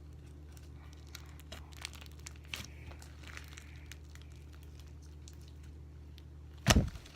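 Foam-bead slime being squeezed and stretched by hand, giving faint crackling and sticky clicks, with one short loud thump near the end.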